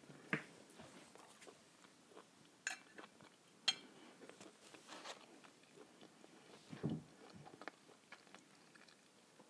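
Close-miked, quiet chewing and mouth sounds from eating a forkful of bread with mackerel in tomato sauce, broken by a few sharp clicks, one of them a metal fork set down on a ceramic plate a little under four seconds in.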